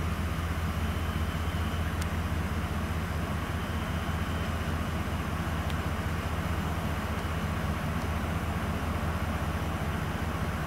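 Vehicle engine idling with a steady low hum, heard from inside the cab.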